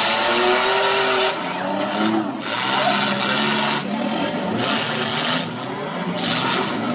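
Several demolition-derby car engines revving hard in repeated surges, each rev rising and falling, as the cars push and spin their wheels against one another in dirt.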